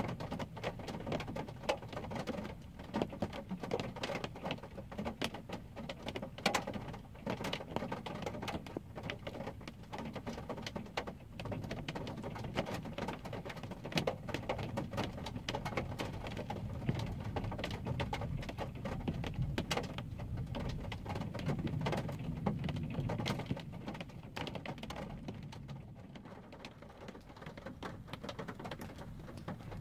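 Rain drops pattering on a car's roof and windshield, heard from inside the car: many irregular sharp ticks over a low rumble that grows stronger past the middle.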